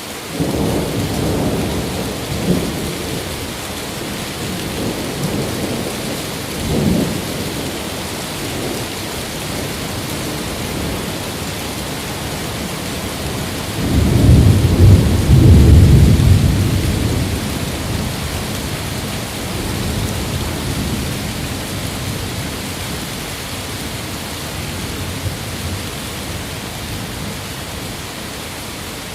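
Thunderstorm recording: steady heavy rain with rolling thunder. Weaker rumbles come near the start, and a loud, long thunder rumble swells and fades about halfway through.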